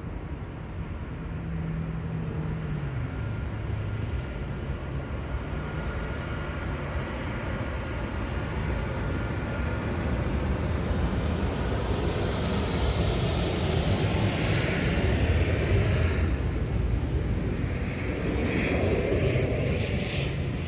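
Jet aircraft passing over, its engine noise building steadily to a peak about three quarters of the way through, then easing, with a faint high whine near the peak.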